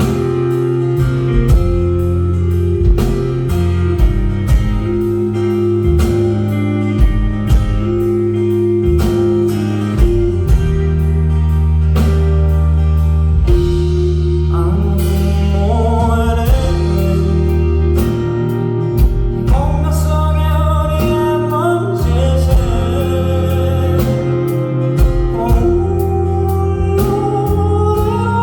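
A live rock band playing an instrumental break: drums keeping a steady beat under sustained bass and guitar chords. About halfway through, a high melodic lead with sliding notes comes in over the band.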